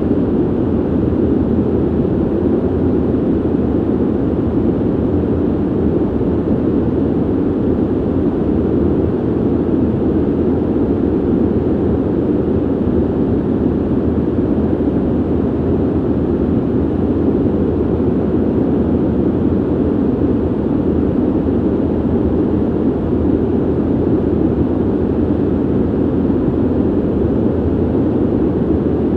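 Steady ventilation noise, a low, even airflow rumble with most of its weight in the low-mid range and little hiss above it.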